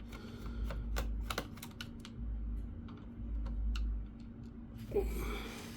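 Screwdriver backing out the last screw from the plastic underside of an HP Pavilion G6 laptop: a run of small irregular clicks and ticks, thick in the first couple of seconds and sparser after.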